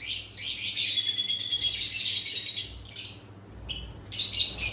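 Many small birds chirping and squawking together in dense, rapid calls, thinning out briefly about three seconds in.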